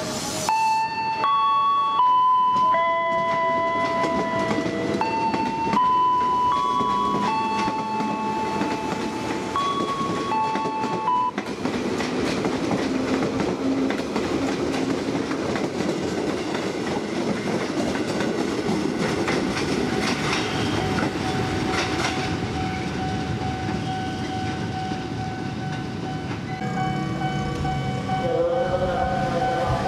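KRL electric commuter train running past on the track, with heavy wheel-and-rail noise from about eleven seconds in. Before that, a string of steady electronic tones steps up and down in pitch like a short tune. A steady high tone joins the train noise about two-thirds of the way through.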